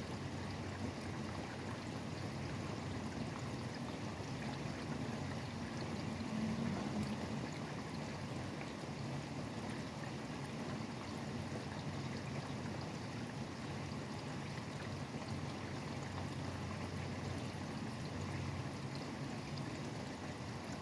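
Steady rain falling, with a low rumble of highway traffic underneath that swells briefly about six seconds in.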